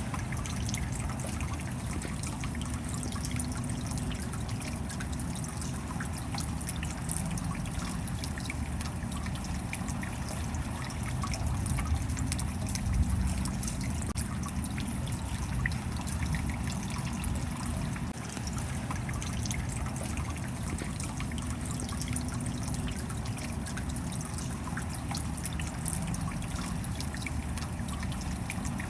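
Steady rain: many separate drops ticking over an even, unbroken hiss of falling water.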